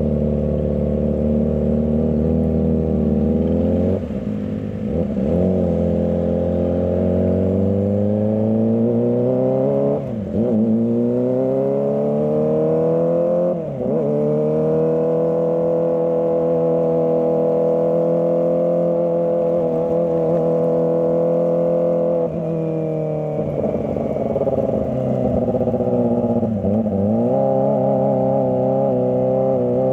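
Kawasaki ZX-25R's 250 cc inline-four engine pulling through the gears. The pitch climbs under acceleration and drops sharply at each gear change, about six times. There is a stretch of steady cruising in the middle.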